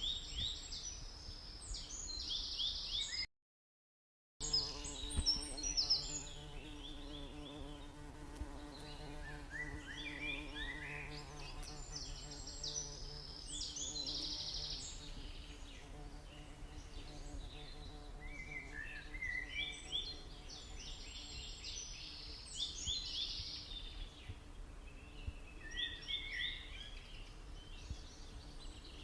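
Forest birdsong: short phrases of quick, high notes, repeating every few seconds. Behind it, a steady insect buzz starts about four seconds in and slowly fades. The sound cuts out completely for about a second just after three seconds in.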